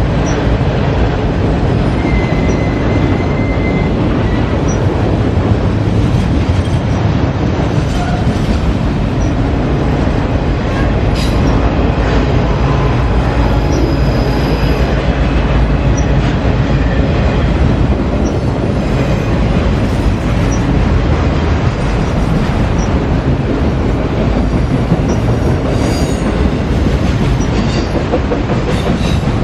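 CSX freight train cars rolling past: a loud, steady rumble of steel wheels on rail with clickety-clack, and a brief high wheel squeal about two seconds in.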